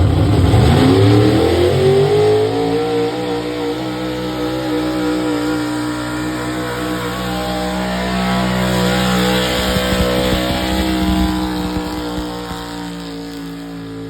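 Modified 4x4 Chevrolet pulling truck's engine revving up steeply as it launches with the sled, then holding at high revs. The sound fades near the end.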